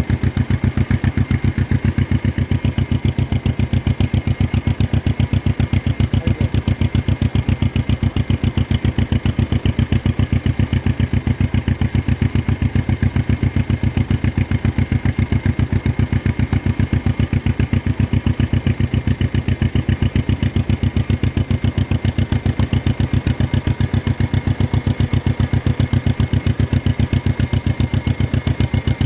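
1953 John Deere 40's two-cylinder engine running at a steady, even speed, its exhaust popping in a regular rapid beat.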